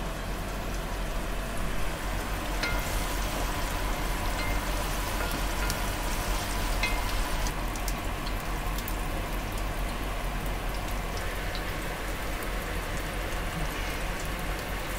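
Food frying in hot oil: a steady sizzle with many fine crackles.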